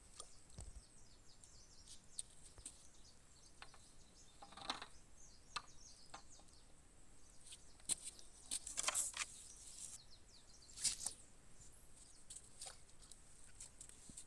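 Faint outdoor ambience with scattered high bird chirps over a thin steady high-pitched hum, broken by a few short rustling sounds, the loudest around the middle and about three-quarters of the way through.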